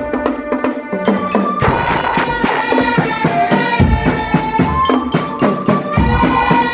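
A drum band playing: rapid snare and tenor drum strokes under a held, stepwise melody on the band's melody instruments. The bass drums drop out for the first second or so, then come back in.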